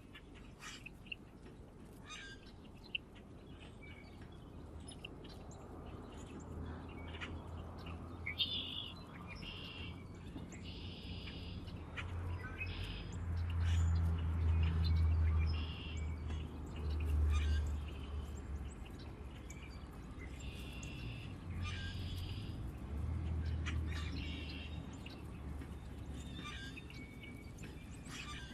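Small songbirds chirping in short, scattered calls, over a low rumble that swells and fades twice, loudest a little before the middle.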